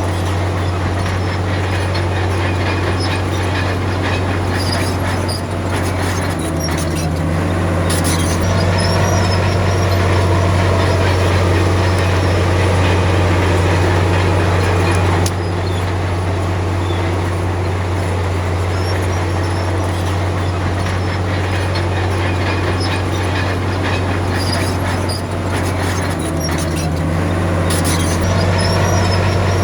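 Komatsu D53P crawler bulldozer's diesel engine running steadily under load. Its note dips and picks back up twice, once several seconds in and again near the end. Squeaks and clanks of steel tracks and blade come through now and then.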